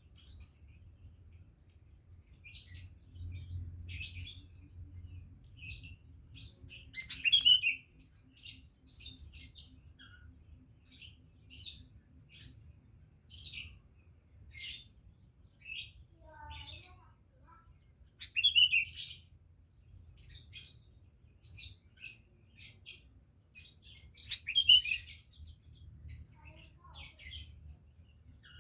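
Caged sooty-headed bulbul giving short, sharp chirps about once a second, a few much louder than the rest, over a faint low steady hum.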